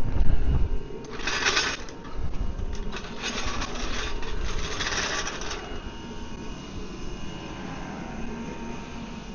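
Metal workshop gear being handled, with rattling and clicking in bursts: a low rumble at first, a short burst about a second in, then a longer run of clattering from about two and a half to five and a half seconds in.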